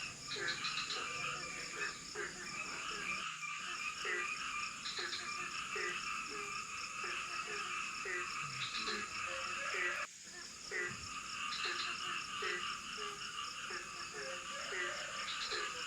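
Night chorus of tropical forest frogs and insects: short frog croaks repeat about twice a second over a dense, chattering higher chorus and a thin steady high-pitched insect tone. The chorus drops off suddenly about ten seconds in, then builds back up.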